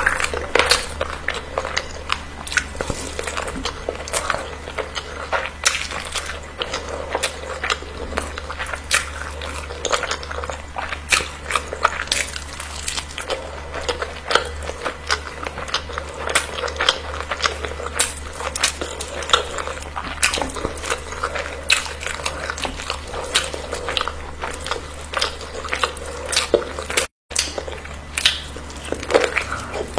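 A person biting and chewing food close to the microphone: a dense, irregular run of quick wet mouth clicks over a steady low hum. The sound cuts out for a moment near the end.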